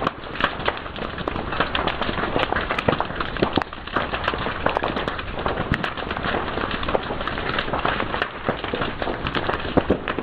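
Wood fire crackling steadily, with frequent sharp snaps and pops.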